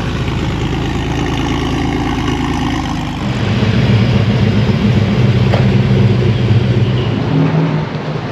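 A car engine running at low, steady revs close by, growing louder about three seconds in as it comes nearer.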